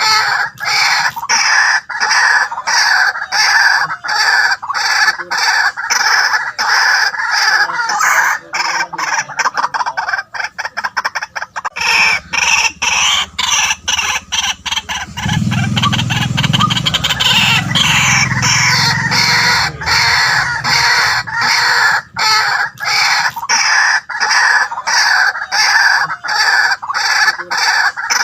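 White-breasted waterhen calling: harsh 'kwak' notes repeated monotonously about twice a second. About eight seconds in, the notes quicken into a rapid stutter for a few seconds, then resume the steady series.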